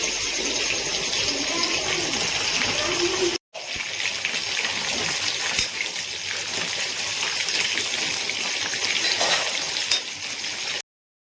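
Chicken pieces frying in hot oil in a pan, a steady sizzle. It breaks off for a moment about three and a half seconds in and cuts off abruptly near the end.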